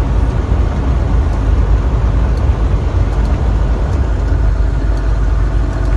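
Semi truck driving at highway speed, its diesel engine and road noise heard from inside the cab as a steady low drone.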